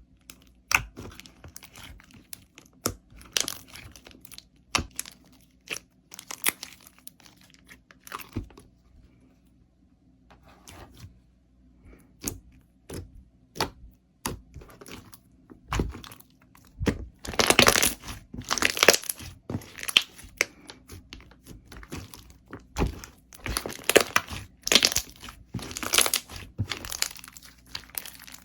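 Slime being handled, squeezed and poked, giving sharp clicks and crackling. The clicks are sparse at first, almost stop for a few seconds around ten seconds in, then come back in dense, louder clusters through the last third.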